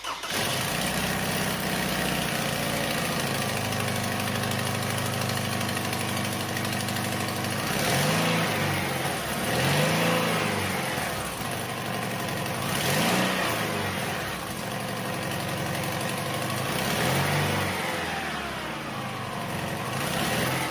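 Toyota Highlander's 2.7-litre four-cylinder engine starting from cold and idling with a loud clattering rattle, revved briefly four times. The noise is typical of this engine on a cold start. The mechanic traces it to a clicking belt tensioner and possibly loose balance-shaft gears.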